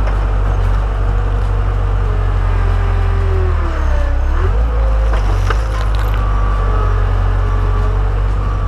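JCB 135 skid steer's diesel engine running steadily, with a whine that sags in pitch about four seconds in and then comes back up.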